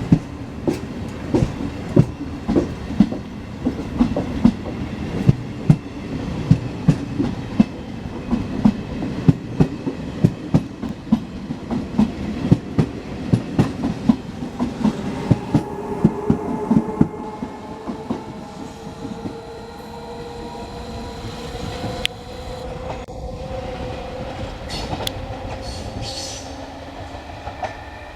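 Regional train of MDVC coaches hauled by an E.464 electric locomotive moving through the station. Its wheels click regularly over the rail joints for the first two-thirds, then an electric whine rises steadily in pitch toward the end.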